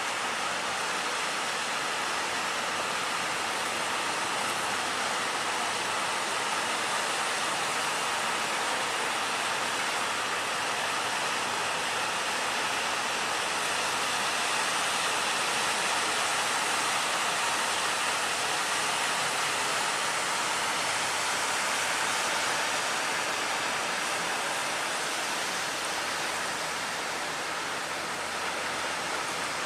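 Steady rushing noise of heavy sea surf breaking, with wind, even throughout and with no distinct engine or voice standing out.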